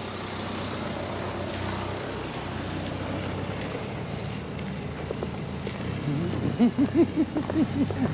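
Car engines running at low speed, with wind buffeting the microphone: a van pulling away and a small car rolling up close. About six seconds in, a quick run of short pitched sounds rising and falling several times a second comes in on top and is the loudest part.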